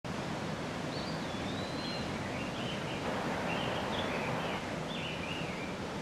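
A small bird singing a string of short, high chirping notes that rise and fall, over a steady outdoor background hiss.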